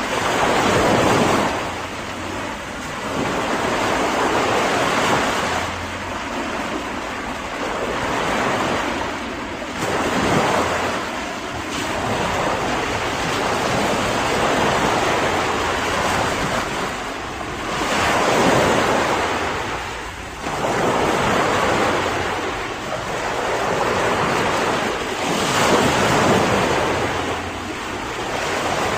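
Ocean waves breaking on a shore, a continuous wash of surf that swells each time a wave breaks, every few seconds, with some wind on the microphone.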